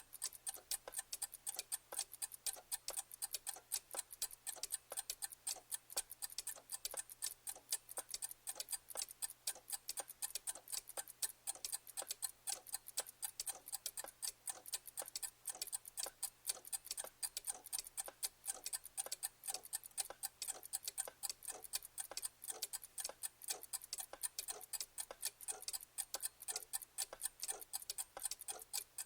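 Clock ticking steadily, a quick, even train of sharp ticks.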